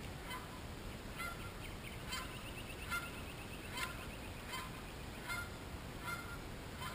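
A bird making short, sharp sounds about once every 0.8 seconds, with a quick rattling run of ticks between about two and four seconds in.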